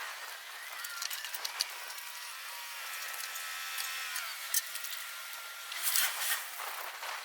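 Light clicks and taps of metal parts being handled while engine mounts are adjusted, with a faint high whine that rises and falls in the middle and a short cluster of louder clicks about six seconds in.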